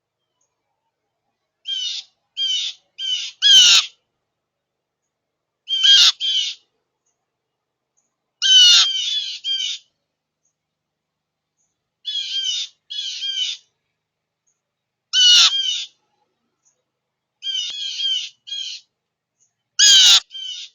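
Birds calling at a feeder: short calls come in quick groups of two to four notes, repeated about seven times with pauses between the groups.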